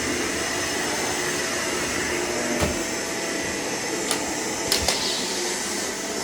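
Vacuum cleaner running steadily, its motor giving an even whine over the suction noise. A few sharp clicks come about halfway through, as of picked-up mess rattling through the machine.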